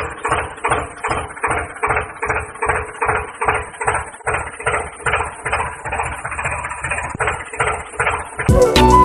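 A rhythmic mechanical sound of evenly repeated strokes, about three a second, like a small hand tool or mechanism being worked back and forth. Background music cuts back in near the end.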